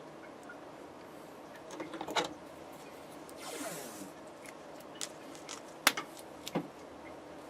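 Small handling sounds as wires and connectors are worked by hand: a few scattered light clicks and knocks, with a brief rustle in the middle.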